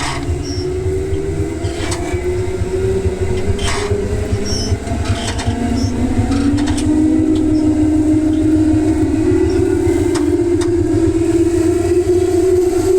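Electric commuter train running, heard from on board: the traction motors whine over a steady rumble from the wheels and rails. About five seconds in, a second motor tone joins and climbs in pitch as the train picks up speed. A few sharp clicks come from the rail joints.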